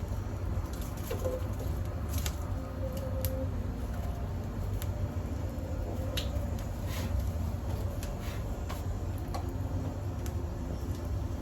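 Small twig fire crackling in a wood-fired oven, with scattered sharp pops over a steady low rumble. A few short, low coos, like a dove's, sound in the background.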